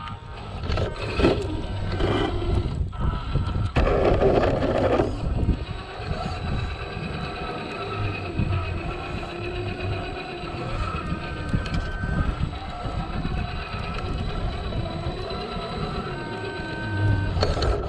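Traxxas TRX-4 RC crawler's electric motor and geared drivetrain whining, the pitch rising and falling as the throttle changes, with a louder stretch of noise in the first few seconds.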